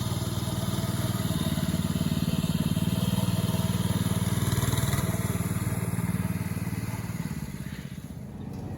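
Baja Warrior mini bike's small single-cylinder four-stroke engine running at a steady speed as it is ridden, fading out near the end.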